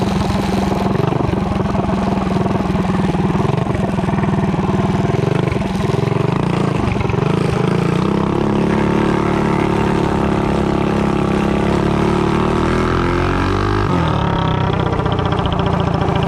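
Mini bike's small engine, driven through a torque converter, running steadily and then accelerating about halfway through, its pitch climbing for several seconds. Near the end the throttle is let go and the engine drops back abruptly.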